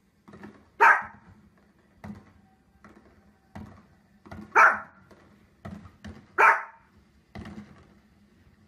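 Small dog barking at fireworks on a television: three loud, sharp single barks about two seconds apart, with softer short thuds between them.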